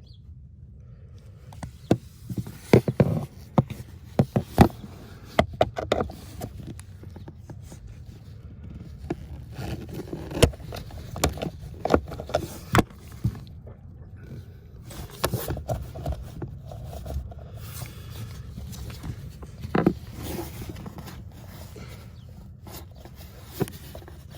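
Irregular clicks, knocks and scraping of hand tools against the plastic blower housing as the Tacoma's heater blower motor is being unfastened.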